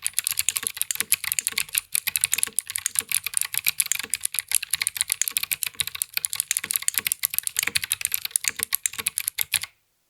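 Fast, continuous typing on a mechanical keyboard fitted with Akko Creamy Cyan clicky switches: a dense run of sharp clicks that stops abruptly near the end.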